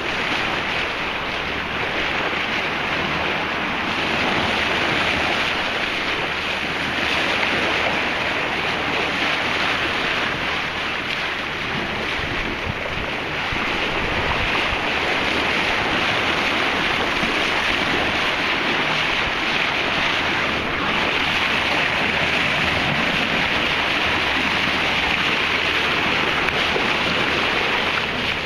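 Steady rush of sea water and waves along a sailboat's hull, with wind buffeting the microphone.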